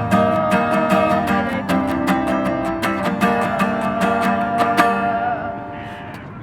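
Music with a strummed acoustic guitar and a held melody line over it, fading out near the end.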